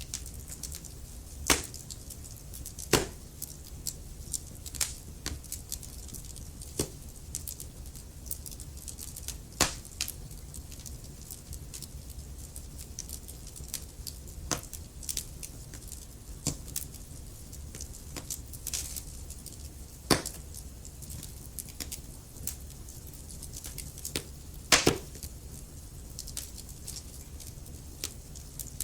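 Wood fire crackling in a fireplace: irregular sharp pops and snaps, a few louder ones standing out, over a low steady rumble of the flames.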